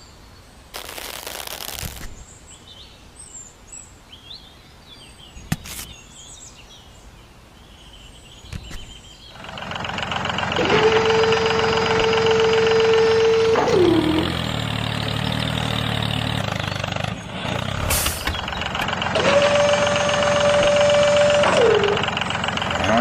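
Birds chirping in the background, with a short hiss about a second in. From about nine seconds a loud machine sound starts and runs on, carrying two held whines, each rising at its start and falling away at its end.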